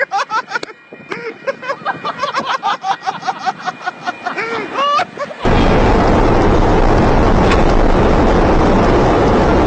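Quick, wavering pitched calls and ticks, then, about five seconds in, a sudden loud, steady rush of noise, typical of a train passing right by the microphone.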